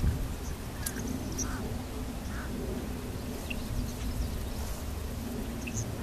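A few short, faint bird calls over a steady low rumble.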